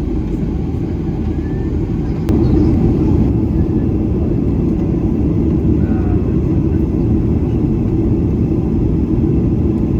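Boeing 737-800 airliner cabin noise: a steady low rumble of the engines and airflow. About two seconds in there is a sharp click, and the rumble jumps up in level and stays louder.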